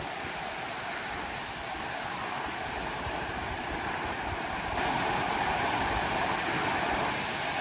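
Steady outdoor rushing noise, with a step up in level about five seconds in.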